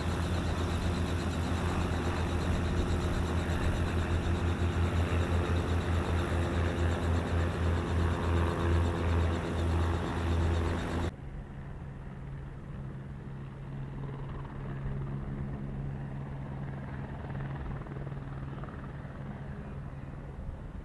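Light aircraft engine running with a strong, low pulsing beat that slows over about ten seconds, then cut off abruptly to a quieter, steady engine hum from another aircraft.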